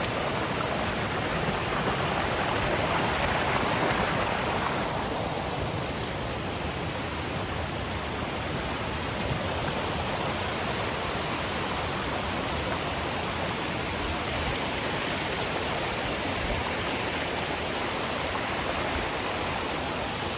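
Rushing water of a rain-swollen mountain stream, a steady even roar. About five seconds in the sound turns a little duller.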